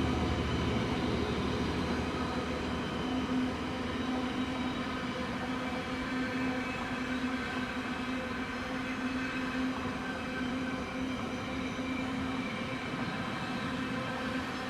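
A train running past on the main line: steady rolling rumble with a held hum, easing slowly as it draws away.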